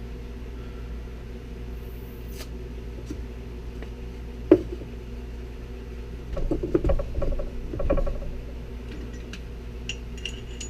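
Metal tools clanking and rattling on the differential's pinion nut as it is tightened further to raise pinion bearing preload: one sharp clank about four and a half seconds in, a run of clattering knocks between about six and eight seconds, and a few light ticks near the end, over a steady background hum.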